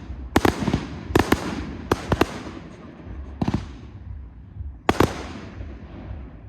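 Display fireworks exploding overhead: a string of sharp bangs, some in quick pairs, each trailing off into a rumbling echo, with the bursts thinning out over the last second or so.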